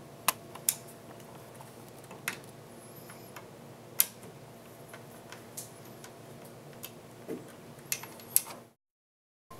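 A screwdriver tightening the screws of a computer fan: scattered sharp clicks and ticks at irregular intervals over a faint steady hum. The sound cuts out abruptly near the end.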